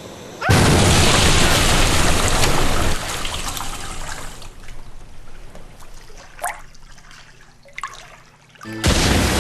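Water gushing out suddenly about half a second in, loud for a couple of seconds, then dwindling to a weaker, uneven splashing and trickle that fades out.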